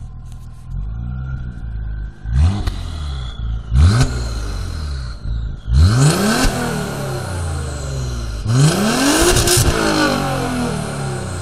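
A 2.7-litre twin-turbo V6 (Audi AGB) in an Audi A4 B6, with a catless exhaust and a 3.0 muffler, idling and being free-revved four times. The first two are short blips, about two and three and a half seconds in; the last two, near the middle and about three quarters of the way through, climb higher and are held longer before dropping back to idle.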